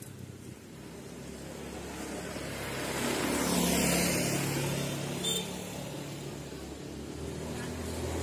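A motor vehicle passing by on the road: its engine and tyres grow louder to a peak about four seconds in, then fade away.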